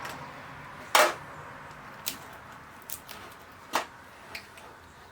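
Plastic shipping tube being handled and opened by hand, its tape being worked loose: a handful of sharp plastic clicks and snaps, the loudest about a second in.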